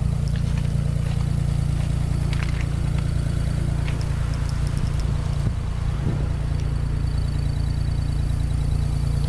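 Engine running steadily at an even, idle-like speed, with a few light clicks and rattles over it.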